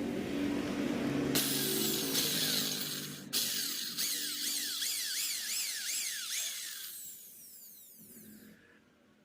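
A power tool running with a high whine whose pitch rises and falls a few times a second, briefly cutting out about three seconds in and fading away near the end. A low engine hum is heard in the first second.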